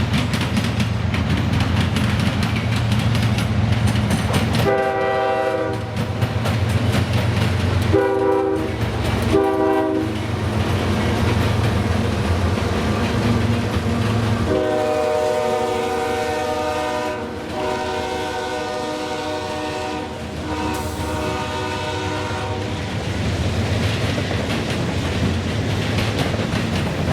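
A freight train locomotive's air horn sounds over the steady low rumble of the passing train. It gives three shorter blasts about five seconds in, then three longer blasts from about fifteen seconds in.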